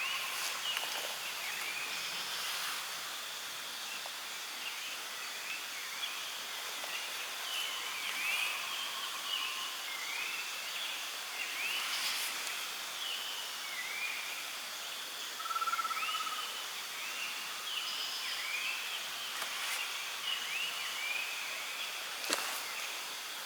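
Forest ambience: a steady hiss under many short, rising chirping animal calls that repeat irregularly, with a sharp click about halfway through and another near the end.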